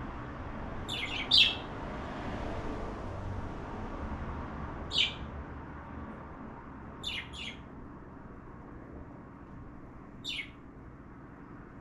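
Pet cockatiel giving short, high chirps that drop in pitch: a quick run of three about a second in, then single chirps and a pair spaced a few seconds apart, over a steady low background hiss.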